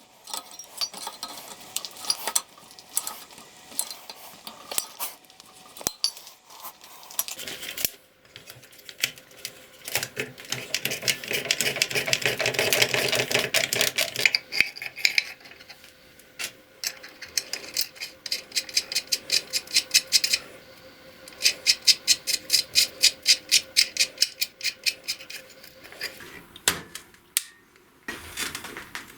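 Workshop hand-tool work on metal parts: scattered clicks and knocks, then a few seconds of rasping noise, then long runs of rapid, even clicking at several clicks a second.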